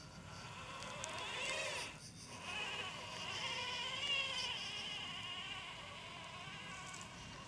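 Small electric motors of a radio-controlled 1:16 model combine harvester whining. The pitch rises and falls about a second in and cuts out briefly near two seconds, then the whine runs on more steadily with slight wavering.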